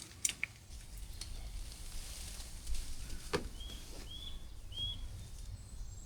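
A small bird calling three short, clear, slightly down-curving notes about half a second apart, a little after halfway through. There are a few sharp clicks near the start and one just before the calls, over a low background rumble.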